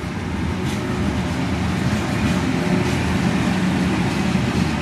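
Electric freight locomotive passing close by: a steady low running noise of wheels on the rails, slowly growing louder as it draws level.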